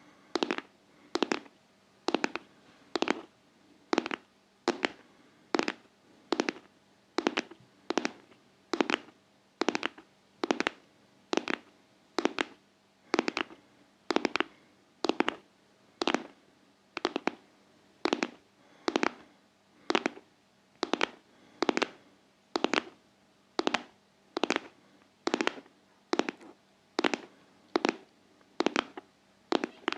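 Close-miked tapping in a steady, even rhythm of about two sharp taps a second.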